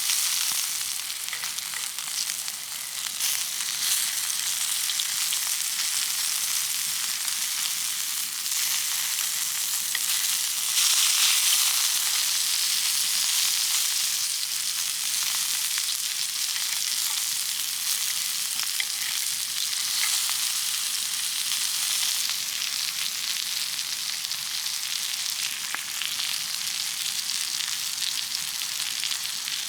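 Food frying in a pan: a steady sizzle with fine crackles, swelling louder for a few seconds a little before the middle.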